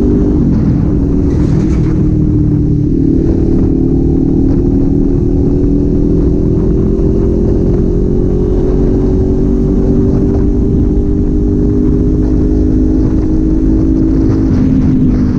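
Kawasaki Z400 parallel-twin engine running under way. Its note dips about a second in, then climbs slowly for about ten seconds, and drops again near the end, as with gear changes.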